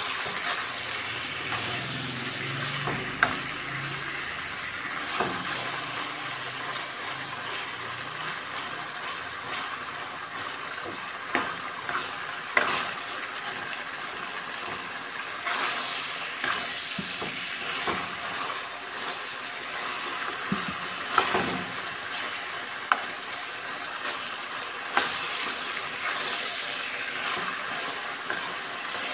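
Sliced liver sizzling as it fries in oil in a pan, a steady crackling hiss, while a metal spatula stirs it, scraping and knocking against the pan now and then.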